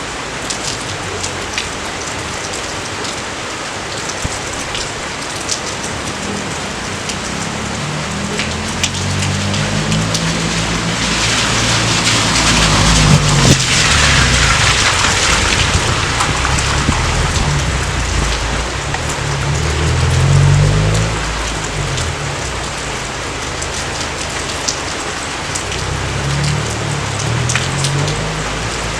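Steady rain falling, with individual drops ticking sharply. From about eight seconds in, low thunder rumbles and swells, loudest around the middle and again about two-thirds of the way through.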